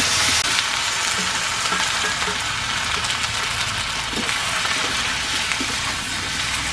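Vegetables sizzling in hot oil in a metal wok as fried potato, pointed gourd and chayote are tipped in and stirred with a flat metal spatula, a steady hiss broken by scattered scrapes and clicks of the spatula against the pan.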